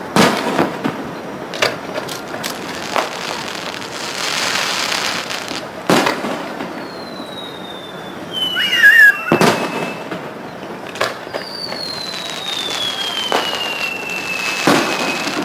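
Fireworks display: sharp bangs of shells bursting at irregular intervals, some with a crackling tail, and two long whistles sliding down in pitch in the second half.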